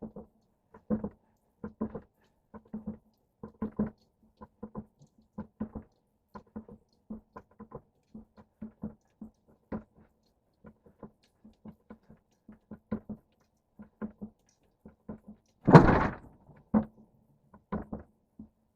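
Truck cab being lowered by the hand-operated hydraulic tilt pump: a steady run of short clicks, two or three a second, then a heavy thud about sixteen seconds in as the cab settles onto its mounts, and a smaller knock a second later.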